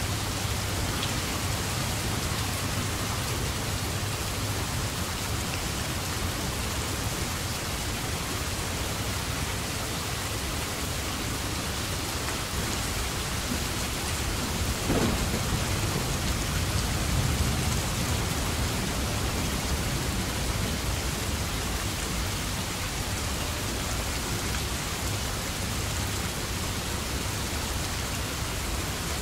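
Steady heavy rain, an even hiss, over a low rumble that swells briefly about halfway through.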